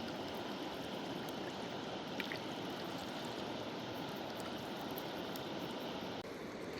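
Full-flowing mountain river rushing: a steady, even wash of water noise, with a brief dropout about six seconds in.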